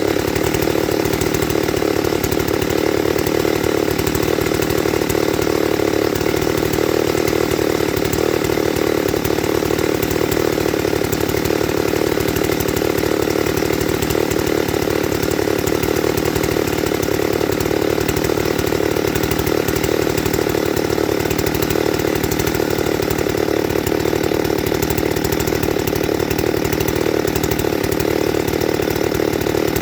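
Ported Husqvarna 394XP two-stroke chainsaw running loud at one steady speed, with no revving up or down.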